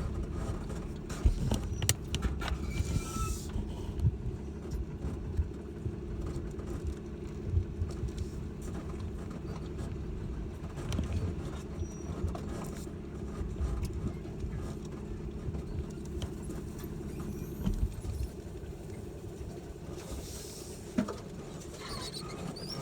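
Four-wheel-drive pickup truck driving slowly over a rough dirt road, heard from inside the cab: a steady engine and road hum with frequent knocks, rattles and the odd squeak from the body over bumps.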